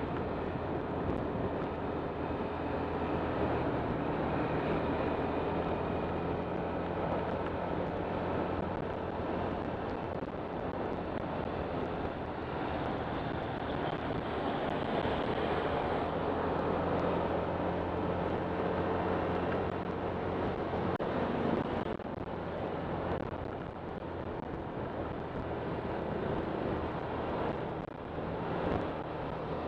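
Honda Click 125 scooter's single-cylinder engine running steadily under way, with wind and road noise on the microphone.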